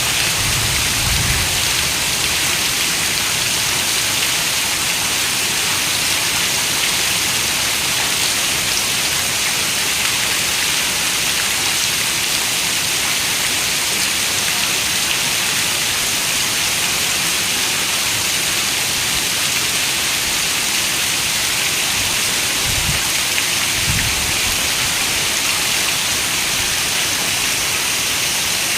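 Steady rain falling, an even hiss, with two brief low rumbles: one at the start and one about 23 seconds in.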